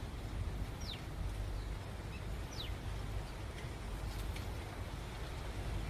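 Bird calls: a few short, high whistled chirps that fall in pitch, about two clear ones, over steady low outdoor background noise.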